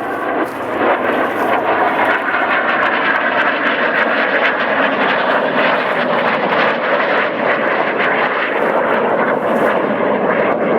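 Fixed-wing airplane engine running steadily as the plane flies past, its pitch drifting slowly.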